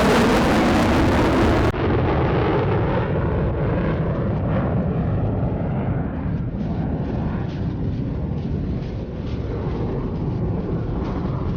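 Jet noise from the F-35A Lightning II's single afterburning turbofan. It passes with a falling pitch in the first two seconds, turns abruptly duller, then settles into a steady low rumble with crackle.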